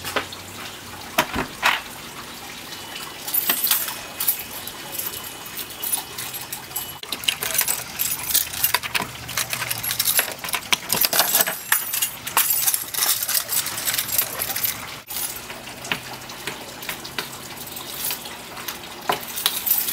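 A bunch of keys jingling, with a key scraping and clicking in a front-door deadbolt: a string of small, irregular metallic clicks and jangles.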